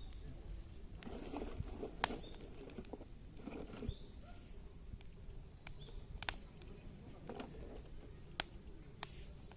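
Branch-wood campfire crackling, with several sharp pops, the loudest about two seconds in, and some soft rustling. Faint bird chirps in the background.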